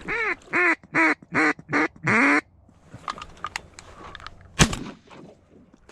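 A run of six loud mallard-hen quacks, the last one drawn out, then a single sharp crack a couple of seconds later.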